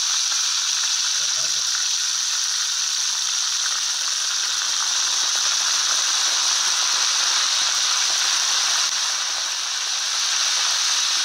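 Grasshoppers deep-frying in hot oil in a small pot: a steady, loud sizzle with a slight dip about nine seconds in.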